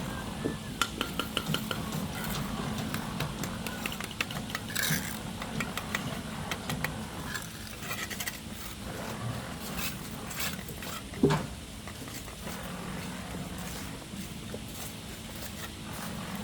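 Light clicks and clinks, a quick run of them near the start, over a steady low hum, with one sharper knock about eleven seconds in.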